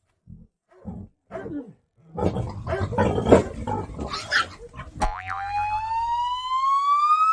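An animal growling and snarling in short bursts, then in a dense stretch, with the wild boar being grabbed at. About two-thirds of the way in, a comic sound effect begins: one long whistle-like tone that glides steadily upward in pitch.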